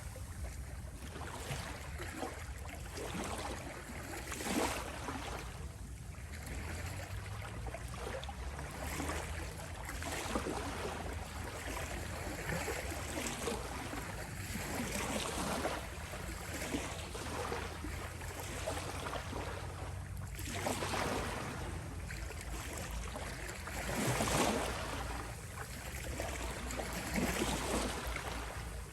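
Gentle ocean waves washing onto a shore: a steady hiss of surf over a low rumble, with soft swells every few seconds, the strongest about three-quarters of the way through.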